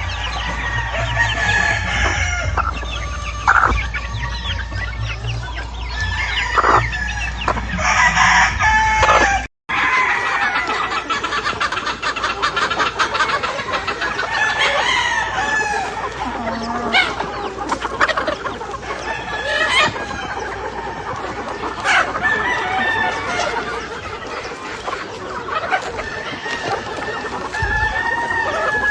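A flock of chickens clucking, with roosters crowing now and then. The sound breaks off for an instant about a third of the way through, then the calls carry on.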